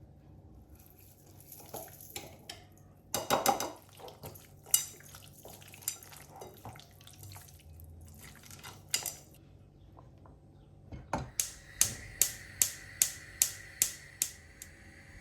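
Kitchen dishes and utensils clinking and clattering during food preparation. Near the end comes a quick run of about nine evenly spaced sharp taps, about three a second.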